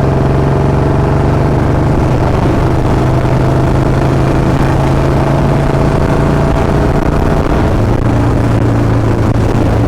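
Royal Enfield Bullet 350 single-cylinder engine running through a free-flow L-bend pipe and long Punjab silencer, giving an extremely loud, steady exhaust note while riding in a high gear. The engine note drops slightly about eight seconds in.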